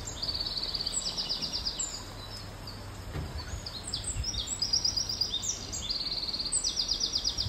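Small birds singing: repeated rapid, high-pitched trills and chirps, over a low steady background hum.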